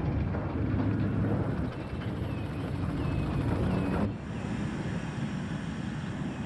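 Low, steady vehicle rumble with a few small bird chirps over it. About four seconds in the sound changes abruptly to a quieter ambience.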